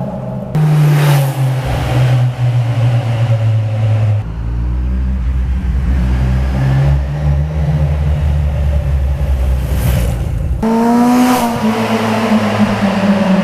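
Kawasaki Z1000's inline-four engine running through a Toce aftermarket exhaust, holding a steady note that changes sharply in pitch about half a second, four seconds and ten and a half seconds in, with slight rises and falls between.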